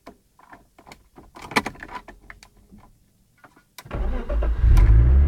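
Light clicks and rattles, then about four seconds in a BMW 320i's M50 straight-six cranks and starts, rising briefly as it catches before running steadily.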